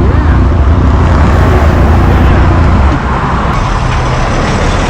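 Motorcycle engine running with a loud rush of wind noise on the microphone; the low rumble eases about three seconds in.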